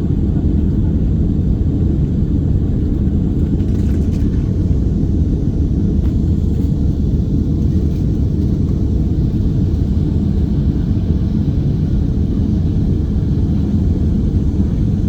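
Steady low rumble of a Boeing 777-200 airliner's jet engines and airflow, heard from inside the passenger cabin.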